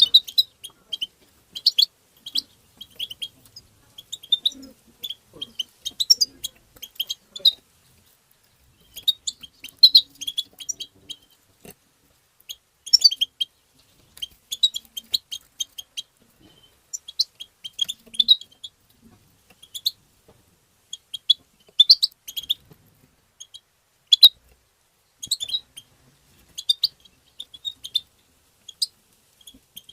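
European goldfinch twittering: rapid clusters of short, high chirps and tinkling notes, in bursts of a second or so with brief pauses between them and a longer pause about eight seconds in.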